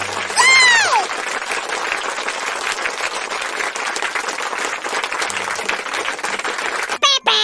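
Applause, a dense steady clapping, with a single whistle that rises and falls about half a second in and a brief warbling tone near the end.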